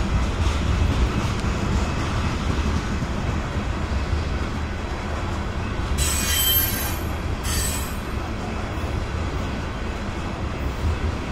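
A train rolling by with a steady low rumble from its wheels on the rails. About six seconds in, the wheels give two brief bursts of high squealing.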